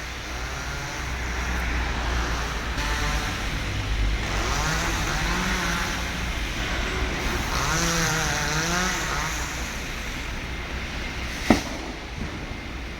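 Chainsaw running and cutting, its engine pitch rising and falling with the throttle and load. A single sharp crack or knock near the end.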